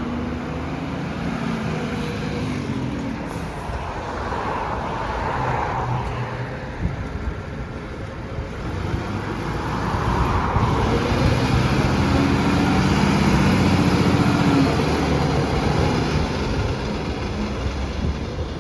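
Diesel garbage trucks running and pulling away, the engine note building and getting louder from about ten seconds in.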